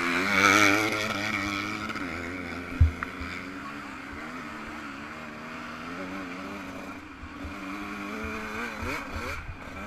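Yamaha YZ125 two-stroke motocross engine revving up and falling back again and again as it rides. It is loudest about half a second in, with a single sharp thump just before three seconds in.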